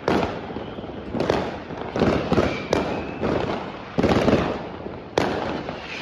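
New Year fireworks going off: a run of about eight loud bangs at uneven intervals, each trailing off in a rolling rumble, with a faint short whistle near the middle.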